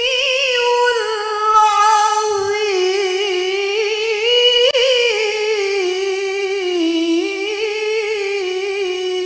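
A woman's solo voice reciting the Qur'an in the melodic tilawah style, drawing out one long ornamented vowel of the closing phrase 'Sadaqallahul 'aliyyul 'azim' without a breath. The line wavers in quick small turns, dips about two-thirds of the way through, then settles on a steady held tone.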